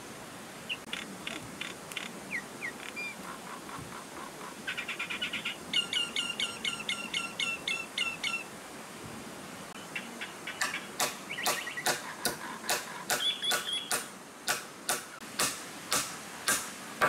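Birds calling: short runs of high chirps and a quick trill, then from about ten seconds in a steady series of sharp clicking notes, two or three a second, over faint forest hiss.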